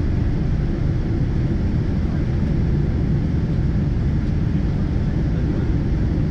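Steady cabin noise inside a Boeing 777-200ER airliner: a constant low rumble from the engines and airflow, with a fainter hiss above it and no change in pitch or level.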